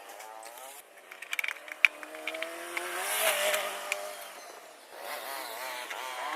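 A vehicle engine revving, its pitch rising and falling, with a few sharp clicks about a second in.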